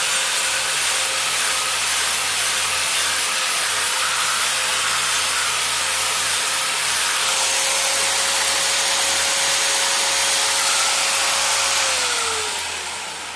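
A power tool motor runs steadily with a harsh grinding hiss and a steady whine. Near the end it is switched off, and the whine falls in pitch as it winds down.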